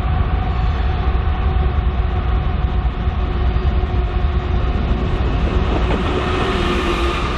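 Freight train running past with a steady low rumble and faint steady tones, with a hiss building near the end.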